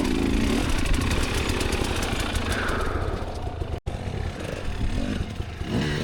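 Dirt bike engine running and revving on the throttle, its pitch rising and falling. The sound breaks off for an instant about four seconds in, and the engine revs up again near the end.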